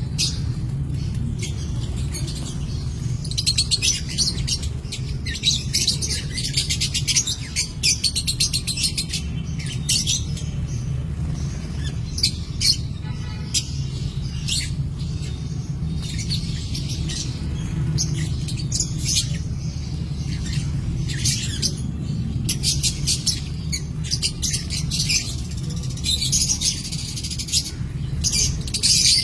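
Many small caged birds chirping busily together, a dense run of quick high chirps with occasional squawks, over a steady low hum.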